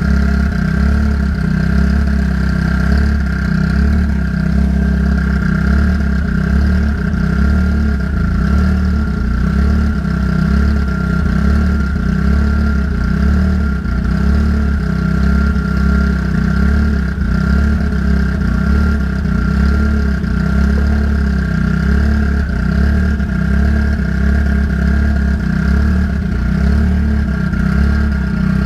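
Car engine idling steadily, with a thin steady whine over it, while the cooling system is burped of trapped air after a new radiator was fitted.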